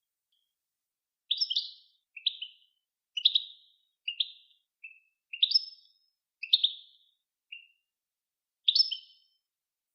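A songbird singing a series of about nine short chirping phrases separated by brief pauses, starting about a second in.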